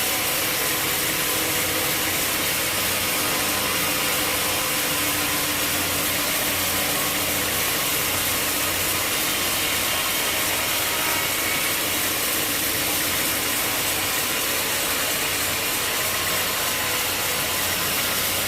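Sawmill machinery running steadily while a saw cuts through a log.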